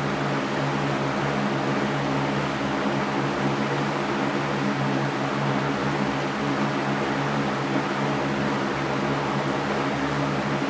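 Electric fan running steadily: an even whoosh of moving air with a low, steady motor hum underneath.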